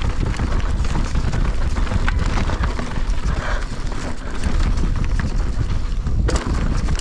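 Mountain bike racing down a rough dirt downhill course, heard from a GoPro on the rider: a steady clatter of tyres, chain and frame over dirt and rocks, with wind on the microphone. There is a brief lull a little past six seconds in.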